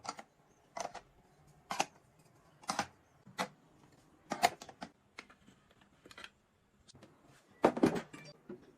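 A series of sharp clicks and knocks, about one a second, with a louder cluster of knocks near the end.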